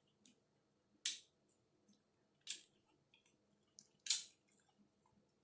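Crunchy chewing of a taco: three short, crisp crunches about a second and a half apart, with faint mouth clicks between.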